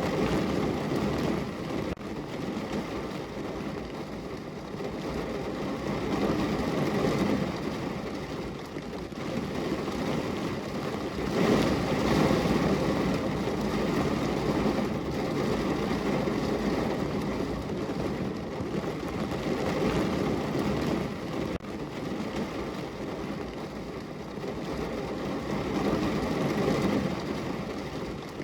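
Heavy rain falling on a car, heard from inside the cabin: a steady hiss that swells and eases in waves, loudest about twelve seconds in.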